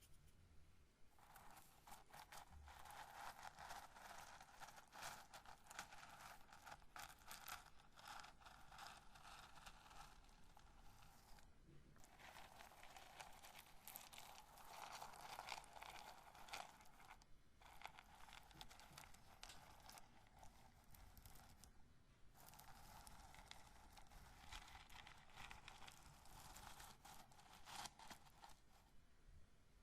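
Roasted corn kernels being rubbed and handled, a dense fine crackling and rustling that stops briefly every several seconds.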